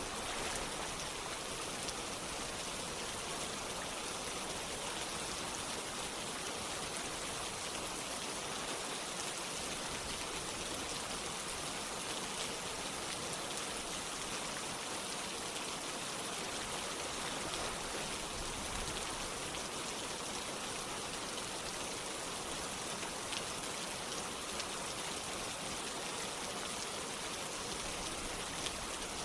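Steady rain falling together with a stream of running water, an even, unbroken hiss.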